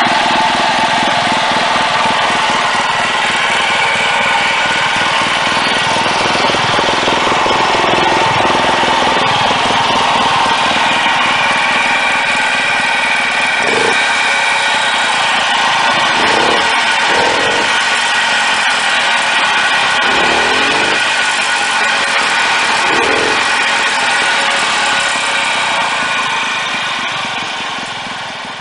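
Hopestar SU-type engine running steadily at idle through a SuperTrapp silencer, which makes it quieter and steadies the idle. It fades out near the end.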